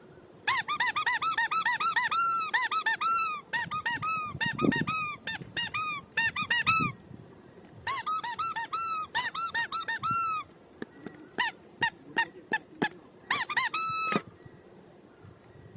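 Rapid squeaking in two long runs: short squeaks, each rising and falling in pitch, several a second. A few sharp ticks follow, then a last brief run of squeaks.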